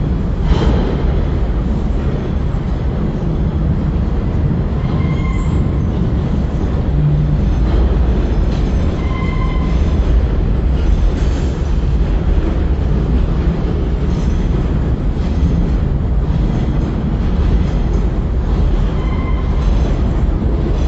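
Freight train of autorack cars rolling past close by: a loud, steady noise of steel wheels on rail, with a few wheel clicks and three short, faint wheel squeals.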